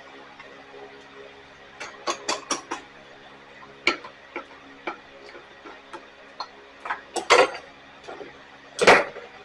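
Metal hand tools and small parts clinking and knocking as they are handled and set down on a workbench. There is a quick cluster of sharp clicks about two seconds in, scattered single clinks after that, and the loudest knocks near the end.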